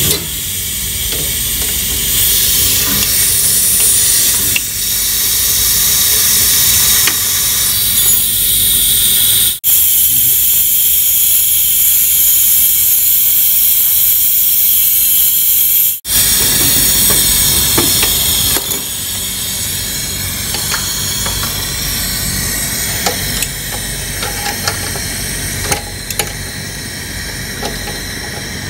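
Steady, loud hiss of pressurized gas escaping during refrigeration pipe work. It breaks off suddenly about ten and sixteen seconds in, then carries on a little quieter with small clicks.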